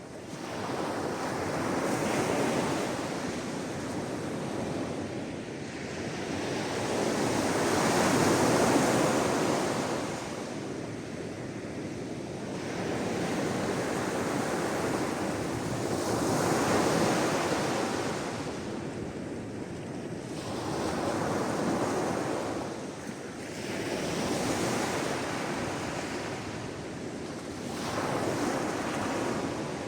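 Sea waves washing onto the shore: a rushing noise that swells and fades about six times, every four to six seconds.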